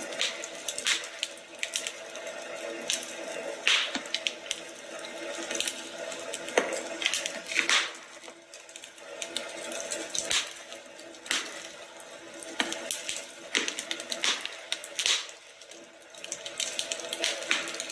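Wood fire crackling in a fireplace: a steady hiss with irregular sharp snaps, several a second at the busiest moments.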